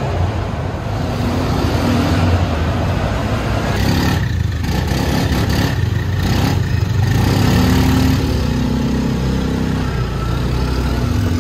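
Quad bike engine running while being ridden, its pitch shifting up and down with the throttle.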